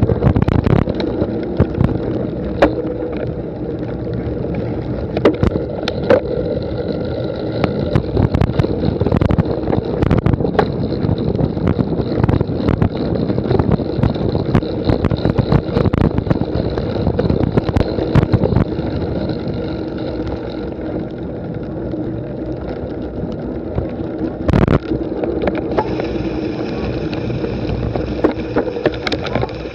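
A cyclocross bike ridden over rough race ground: a steady rush of wind and rolling noise with constant rattling clicks and knocks from the bike.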